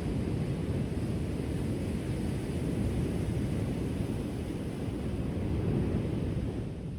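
Ocean waves washing onto a shore: a deep, steady rush of surf that swells about six seconds in, then eases off near the end.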